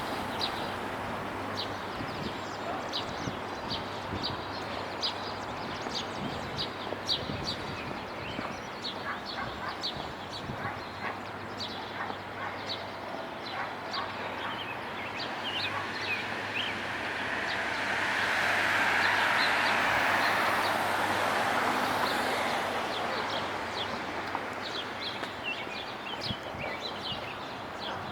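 Downtown street ambience: steady traffic noise with one vehicle passing, its noise swelling and fading about two-thirds of the way through, while small birds chirp rapidly and repeatedly throughout.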